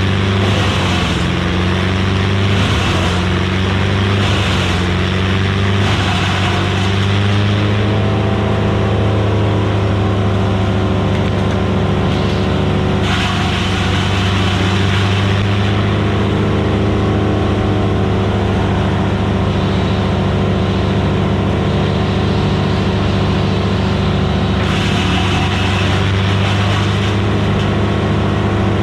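Vermeer BC1000XL gas wood chipper running steadily at speed, with stretches of rougher, brighter noise near the start, around the middle and near the end as wood is fed through and chipped.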